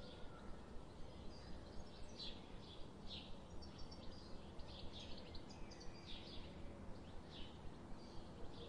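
Small birds chirping: short high chirps, several a second, over a steady background hiss.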